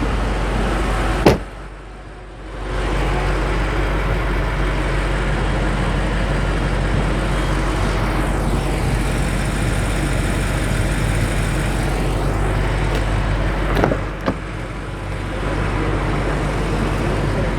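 Steady vehicle and traffic noise with a low hum. It is broken twice by a sharp knock, about a second in and again near the end, and after each knock the noise drops away for a second or so.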